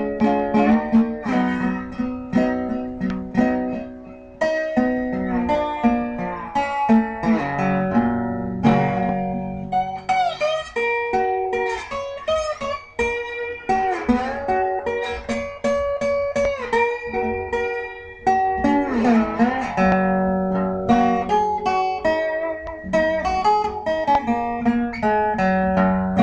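Guitar music: single plucked notes and chords, with a few notes sliding or bending in pitch.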